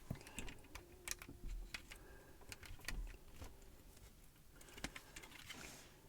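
Faint, irregular clicks and taps of small plastic building bricks being handled and pressed together.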